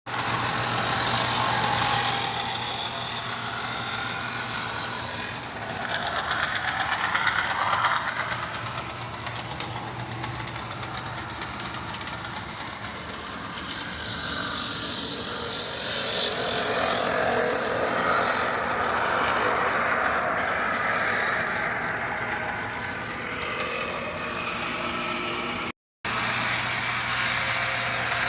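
Brass O-scale model diesel locomotive running on the track: a steady electric motor hum with fine rhythmic wheel-on-rail clatter that swells and fades as it moves. The sound cuts out for a split second near the end.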